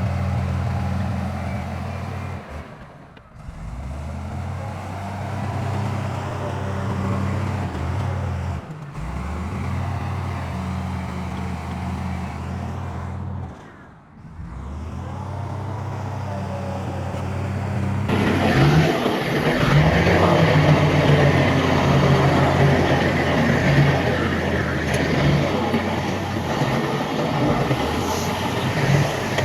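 Heavy diesel engine of earthmoving machinery running steadily, dropping away briefly about 3, 9 and 14 seconds in; from about 18 seconds it gets louder and noisier, with clatter over the engine.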